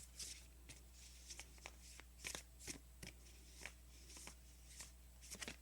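Oracle cards being shuffled and handled by hand: faint, irregular soft swishes and light card snaps.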